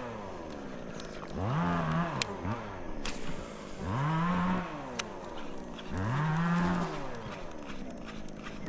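An animal calling three times, each a long low call that rises and then falls in pitch, about two seconds apart.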